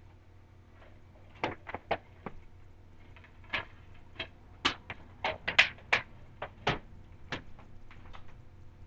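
A run of sharp plastic clicks and clacks, a dozen or so spread over several seconds: a DVD case being opened and the disc handled and loaded into a DVD player.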